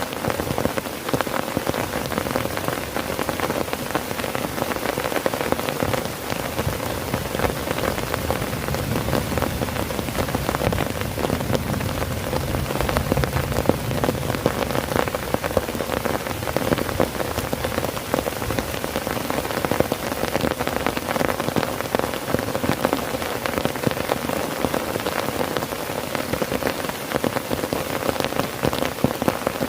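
Heavy rain falling on a tent, a dense, steady patter of countless drops hitting the fabric.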